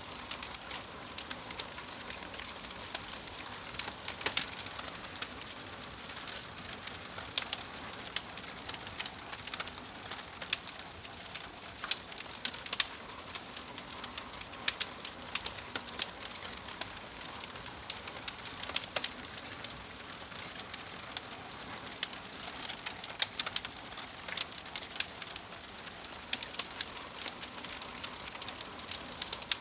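Wood fire in a fireplace crackling, with frequent irregular sharp pops and snaps over a steady soft hiss.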